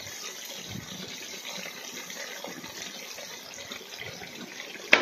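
Shallots, green chillies and curry leaves sizzling steadily in plenty of hot coconut oil in a metal pot, with one sharp click near the end.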